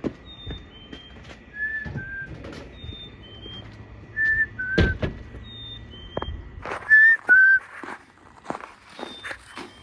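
Songbirds whistling two-note phrases, each pair stepping slightly down in pitch, repeated every couple of seconds at a lower and a higher pitch, with scattered clicks and knocks.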